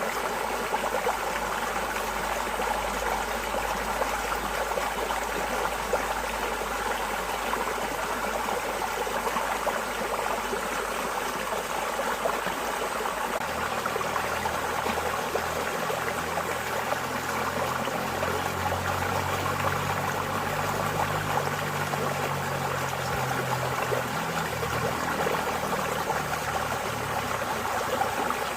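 Water flowing steadily in a small stream, a continuous even babbling and trickling. A faint low rumble comes in about halfway through.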